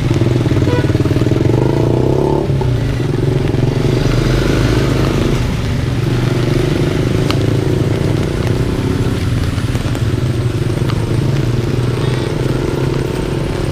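Motorcycle engine running close by at a steady pitch, a low hum with a rough, buzzy edge.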